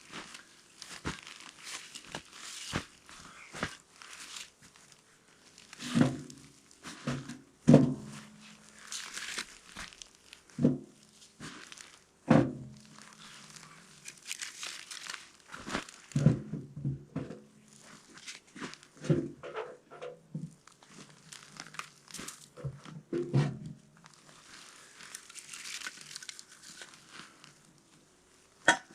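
Rustling and crinkling with irregular knocks, several ringing briefly: kindling and split firewood being handled and loaded into a small metal tent stove to light it.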